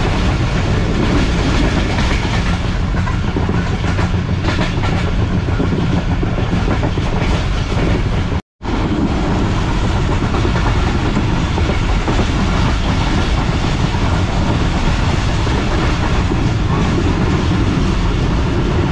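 Passenger train under way, its coach and wheels rumbling loudly and steadily along the rails as heard from on board. The sound cuts out for a moment about halfway through.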